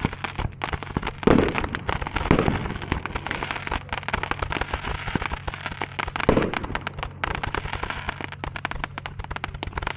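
Fireworks crackling and popping in a dense, rapid stream, with three louder bangs standing out at about one and a half, two and a half, and six seconds in.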